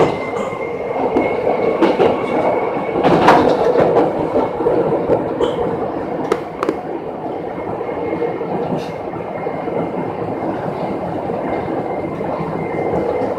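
Electric local train running along the Chichibu Railway line, heard from inside the front car: a steady rumble of wheels on the track with a faint steady high tone, and a few sharp clacks as the wheels pass over rail joints.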